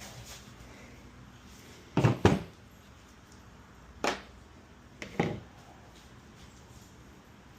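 Sharp knocks of tools or small parts being handled and set down on a hard surface: a quick double knock about two seconds in, a single one about four seconds in, and another quick double knock about five seconds in.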